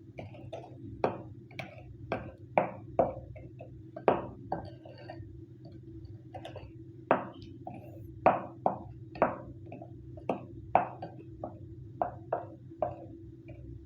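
A spoon knocking and scraping against a bowl while stirring a thick milk-powder, sugar and saffron-milk mixture: a run of short sharp knocks, roughly two a second and irregular, over a steady low hum.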